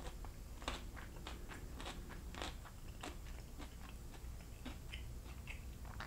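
A person chewing a mouthful of food close to the microphone: small, irregular mouth clicks, a few a second.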